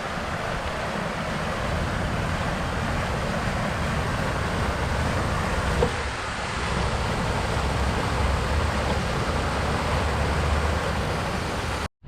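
Steady outdoor rushing noise with a low rumble underneath; it drops out for a moment just before the end.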